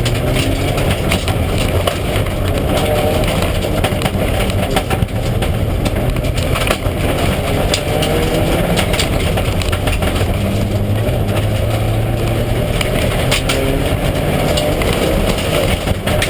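Mitsubishi Lancer Evolution IX rally car's turbocharged four-cylinder engine at full effort, its pitch repeatedly climbing and dropping as it is driven hard through the gears, with scattered sharp clicks and knocks.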